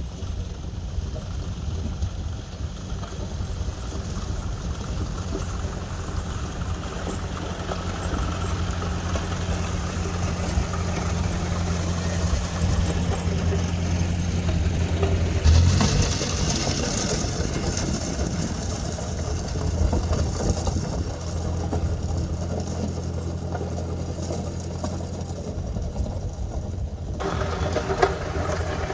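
1956 Ford 640 tractor's four-cylinder engine running steadily as it grades a driveway with a rear blade, with a louder rush of noise about halfway through.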